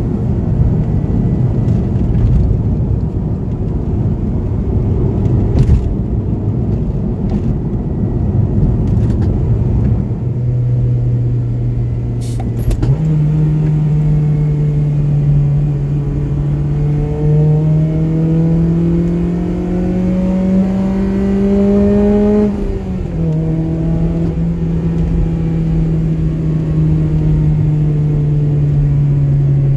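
Honda Civic Type R FD2's K20A four-cylinder engine through an aftermarket exhaust. For the first third it is mostly a low road rumble. Then the engine note steps up and climbs steadily under hard acceleration for about ten seconds, drops abruptly at an upshift about two-thirds of the way in, and settles into a steady drone as the car cruises.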